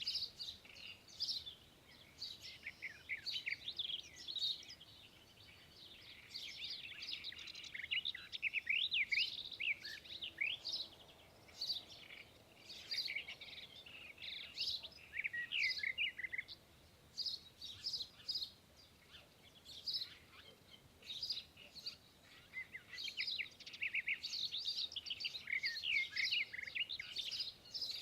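Many small birds chirping and twittering together in a busy chorus of short, rapid, high calls, thinning out for a few seconds past the middle.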